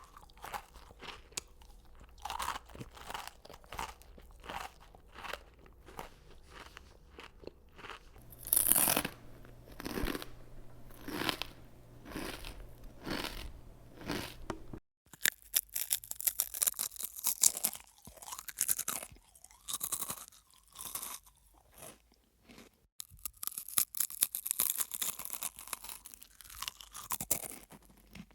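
Crunchy food being chewed close to the microphone, a long irregular run of crisp crunches. About halfway through it cuts abruptly to a second take with brighter, sharper crunching.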